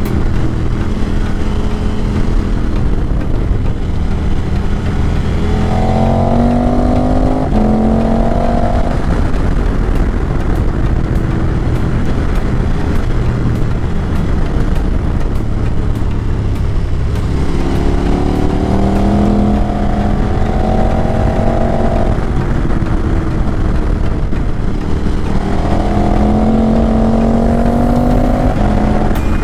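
KTM 1290 Super Adventure R's V-twin engine, fitted with an SC Projects exhaust, pulling under acceleration while riding. Its note rises in pitch in three pulls and steps down at a gear change about seven and a half seconds in, over steady wind and road noise.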